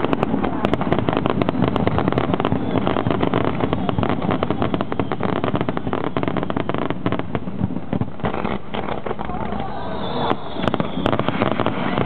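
Aerial fireworks bursting in a dense barrage, a rapid, continuous crackle of many sharp reports that thins a little past the middle and picks up again with a fresh cluster of loud bangs about ten seconds in.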